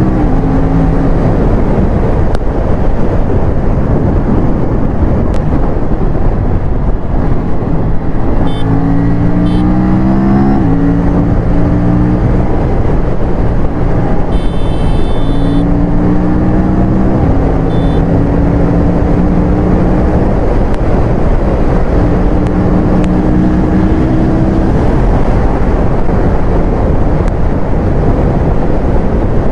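Aprilia RS457 parallel-twin engine pulling under load while the bike is ridden, heard over a loud steady rush of wind and road noise; the engine note climbs in pitch several times as it accelerates. A short high-pitched tone sounds about halfway through.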